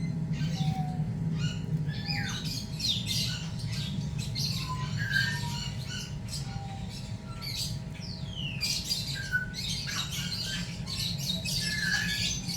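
Repeated short bird squawks and chirps, one sliding down in pitch a little before the ninth second, over a steady low hum.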